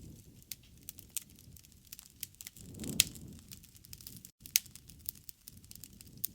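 Wood fire crackling, with irregular sharp pops over a low rumble of burning. The loudest pop comes about three seconds in, during a brief swell of the rumble, and another sharp pop follows a little over a second later.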